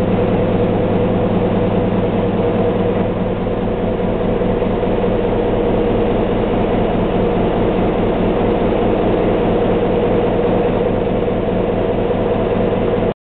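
Renault stationary diesel engine (engine no. 4 of a Maginot Line fort's power plant) running steadily at a constant speed, with a deep even rumble.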